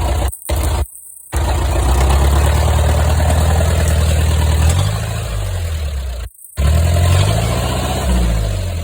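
Daihatsu Taft 4x4's engine working hard, its revs holding steady and then rising and falling twice. It is broken by a few short, sudden gaps.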